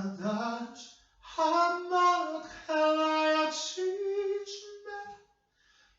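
A woman singing solo and unaccompanied, a slow melody of long held notes with short breaths between phrases.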